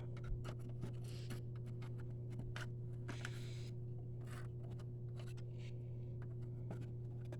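Faint scratching and light clicking of dirt and grime being picked and scraped off the vacuum cleaner's parts by hand, over a steady low hum.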